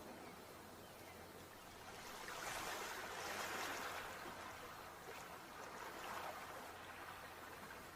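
Sea waves washing on the shore: a steady hiss of surf that swells and ebbs in slow surges.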